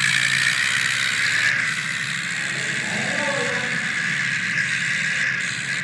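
Tractor engine running steadily, with a short sound that rises and falls about three seconds in.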